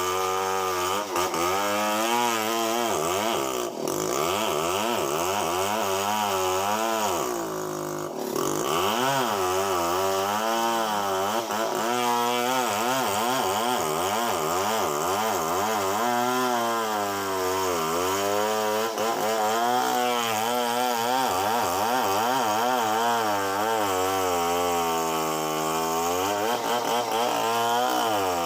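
Two-stroke chainsaw running at high revs while cutting through wood, its engine pitch repeatedly sagging and rising as the chain bites and frees in the cut, with one deeper drop about a quarter of the way in.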